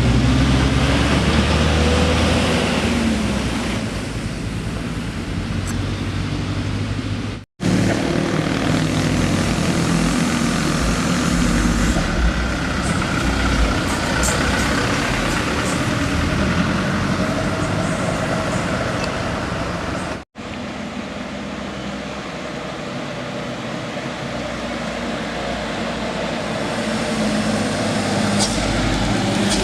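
Heavy vehicle engines running past, with engine pitch rising and falling as they pull by. The sound breaks off abruptly twice between clips.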